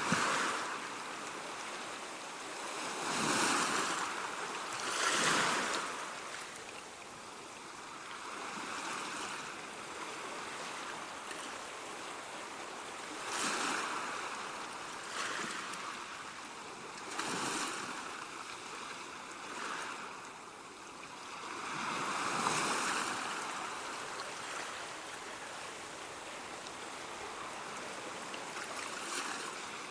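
Ocean waves washing ashore, a steady rush of surf that swells with each breaking wave every few seconds.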